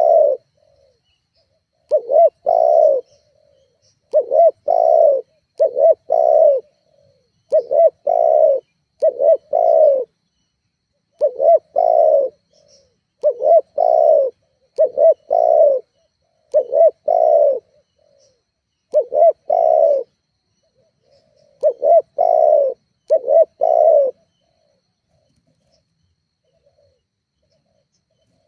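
Spotted dove (tekukur) cooing: short phrases of two or three low coos, repeated about every two seconds, stopping a few seconds before the end.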